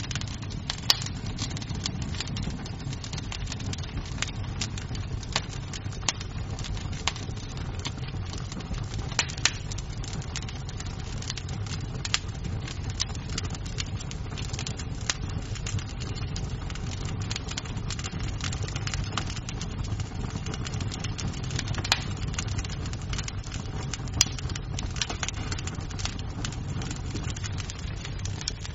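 Wood fire crackling in a fireplace: a steady low rumble of flames with frequent sharp pops and snaps of burning wood, a few of them louder than the rest.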